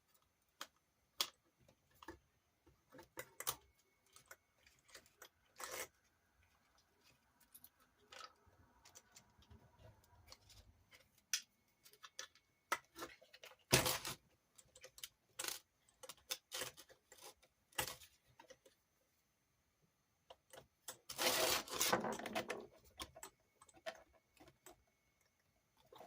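Small metal parts and a hex driver clicking and tapping while an RC car's gearbox is refitted, with scattered sharp clicks. A louder click comes about halfway through, and a longer rattle of handling about three-quarters through.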